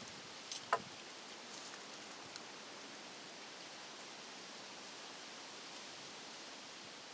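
Faint steady hiss, with a short click about half a second in and a sharper, louder click just under a second in.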